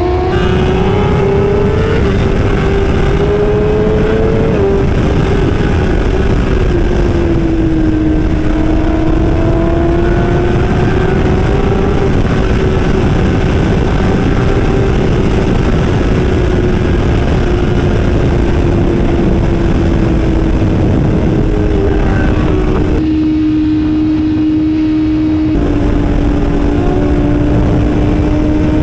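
Superbike engine running at high revs, its note held nearly steady with slow small rises and falls and a small sudden drop about five seconds in, under a dense rushing noise.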